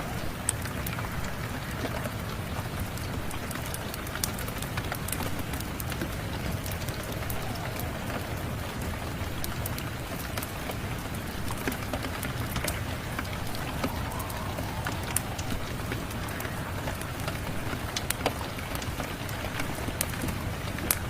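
Steady rain falling, mixed with the scattered sharp crackles and pops of a wood fire burning in a fireplace.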